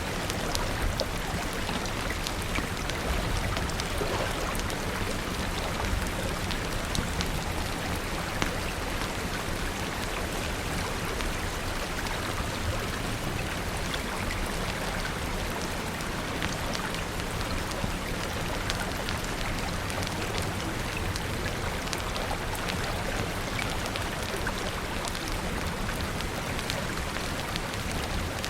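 Steady rain falling, with many scattered sharp clicks throughout and a low rumble beneath.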